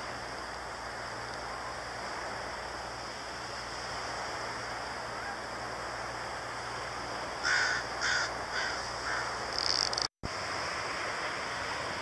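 A bird gives four short, harsh calls in quick succession about two-thirds of the way in, and one more a moment later, over a steady outdoor hiss. The sound drops out for an instant near the end.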